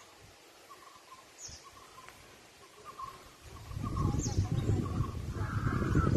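A bird repeating a short, even call about twice a second, with a few faint high chirps from other birds. About three and a half seconds in, a loud low rushing noise sets in and covers the rest.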